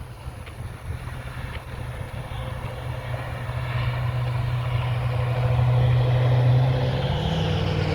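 A motor engine's low, steady hum grows steadily louder, with its pitch stepping up near the end.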